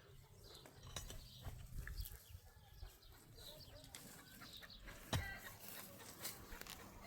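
Chickens clucking faintly, in short scattered calls, with one sharp knock about five seconds in.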